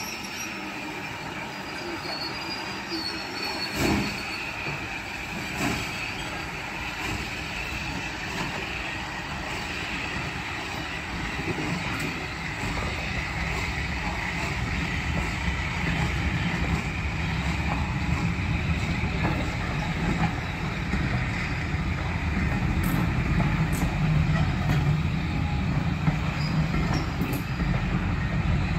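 Passenger coaches of a steam-hauled train rolling past slowly. A steady rumble of wheels on the track grows louder as the coaches pass, with a couple of sharp knocks in the first six seconds.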